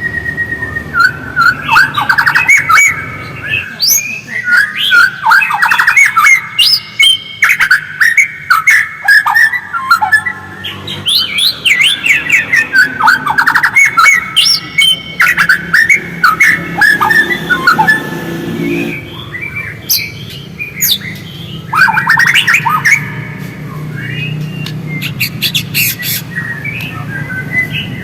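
White-rumped shama (murai batu) singing in bursts of rapid, chattering sweeps and whistled notes, phrase after phrase with short pauses between. A low steady hum runs underneath.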